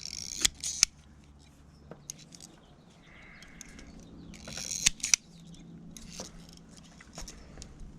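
Hand tools working on automotive wiring: two sets of sharp snips, each with a short rasping pull, as wires are cut and stripped for pigtailing. A faint steady hum sits underneath.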